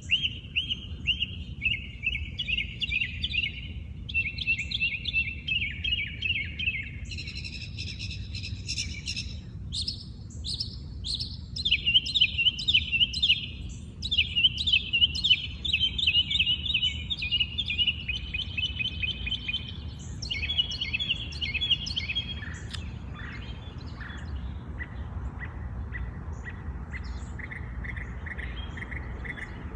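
A songbird, probably a northern mockingbird, singing a long string of varied phrases, each repeated several times before it switches to the next. About two-thirds of the way through the phrases give way to a steadier, rapid pulsing trill, over a low steady background rumble.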